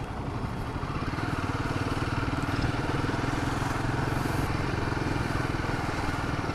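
Royal Enfield Himalayan 450's single-cylinder engine running while the bike is ridden, its pulsing note rising slightly in the first second and then holding steady.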